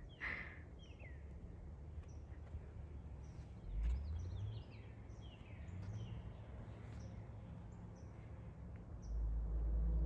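Birds chirping: many short calls that slide downward in pitch, over a low rumble. Soft background music with steady low tones comes in about a second before the end.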